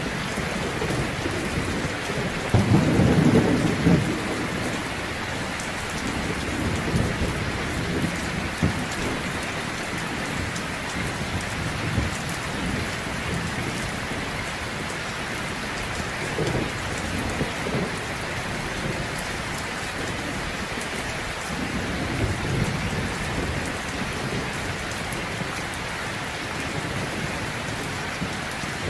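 Heavy rain falling steadily, with rolls of thunder rumbling underneath: the loudest a few seconds in, fainter ones about halfway and later.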